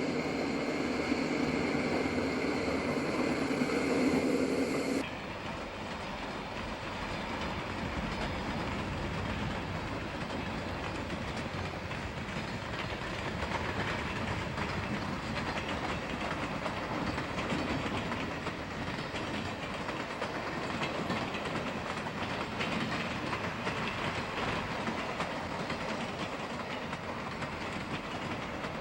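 Freight train rolling by, its steel wheels clacking over rail joints with a steady rumble. For the first five seconds a louder sound with several steady held tones sits over it, then cuts off suddenly.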